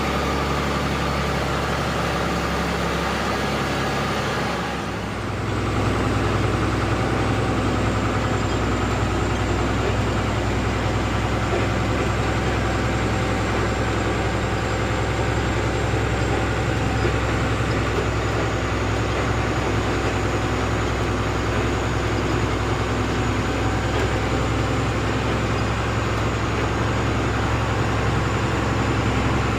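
Truck engine running steadily. About five seconds in, the engine sound dips briefly, then settles into a deeper, slightly louder hum.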